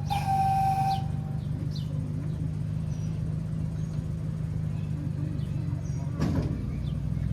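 Miniature train's locomotive running with a steady low hum. A horn blast ends about a second in, and there is a single knock near the end.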